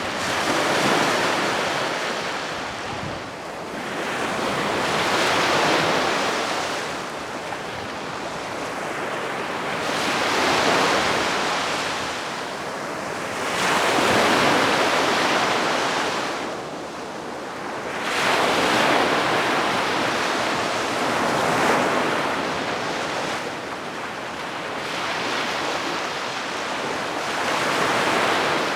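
Calm sea waves washing gently onto the shore, each wave swelling and falling away about every four to five seconds.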